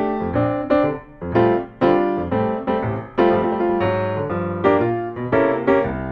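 Background music: a piano playing chords and notes with a steady beat.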